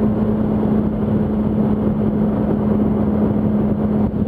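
Yamaha R1 inline-four engine holding a steady note at highway speed, about 90 mph, mixed with heavy wind rush.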